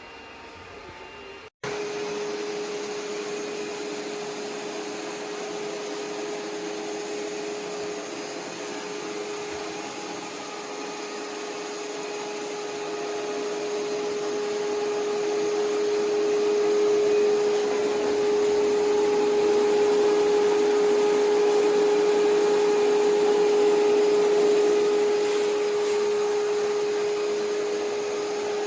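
ECOVACS Deebot T50 Omni robot vacuum running, its suction fan a steady whine over airy hiss. It sets in abruptly about a second and a half in, grows louder around halfway through and eases a little near the end.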